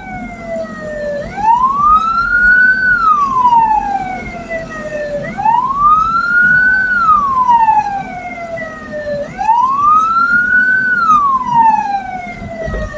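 Hearse siren wailing in slow cycles: each wail rises for about a second and a half and then falls away more slowly, repeating about every four seconds.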